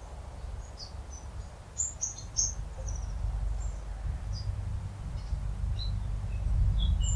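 Small songbirds giving many short, high chirps and calls, scattered and overlapping and growing busier near the end, over a steady low rumble.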